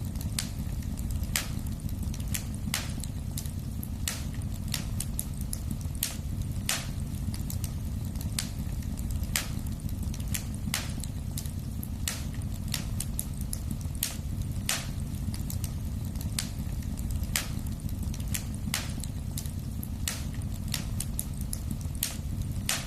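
Wood fire crackling in a fireplace: a steady low rumble of burning, with sharp pops and crackles about once a second at irregular intervals.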